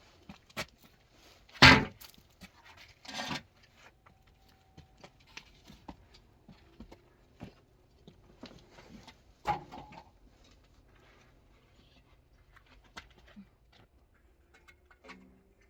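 Irregular knocks and taps, as of hard objects being set down or struck. The loudest is a sharp knock just under two seconds in, with two more strong ones a little after three seconds and near ten seconds, and lighter clicks scattered between.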